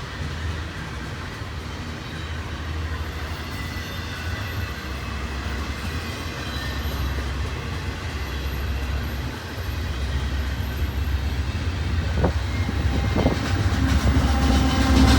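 Double-stack intermodal well cars rolling past on the main line: a steady rumble of steel wheels on rail, with a couple of sharp clicks from the wheels near the end. The train grows louder in the last few seconds.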